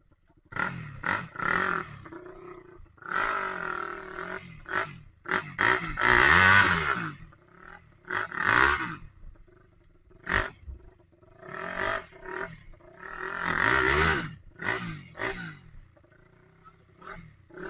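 People grunting and shouting with effort in repeated bursts, as though straining to push or lift a motorcycle through mud. The longest and loudest cries come about six seconds in and again about fourteen seconds in.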